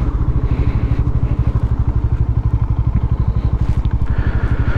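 Motorcycle engine idling with a steady, rapid low thumping of about a dozen pulses a second.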